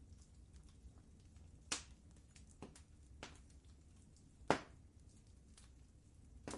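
Wood fire crackling in a fireplace: sharp, irregular pops and snaps, the loudest about four and a half seconds in, over a low steady rumble.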